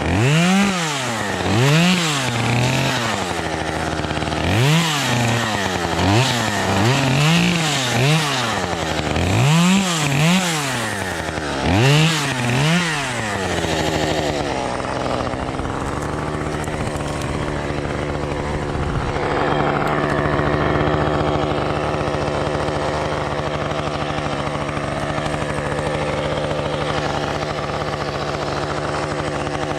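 Small two-stroke chainsaw revved up and down about a dozen times, then settling to a steady idle for the second half.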